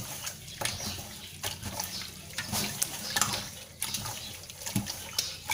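Raw pork intestines being kneaded and squeezed by hand with rock salt in a stainless steel pot: irregular wet squelching. It is the salt massage that draws out their slime and smell before washing.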